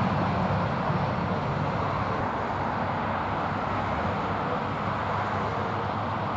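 Steady road traffic noise from passing vehicles, slowly easing off.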